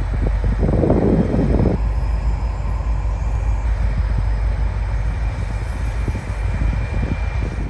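Diesel train passing: a loud, steady, heavy rumble with rougher surges about a second in and again near the end, cutting off suddenly at the end.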